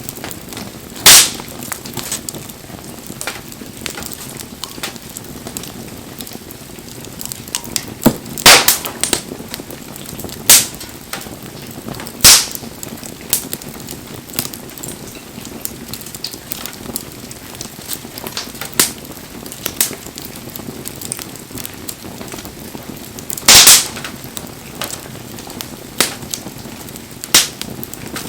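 Firewood burning in an open wood fire: a steady low hiss under frequent small crackles, with about five loud, sharp pops spread through.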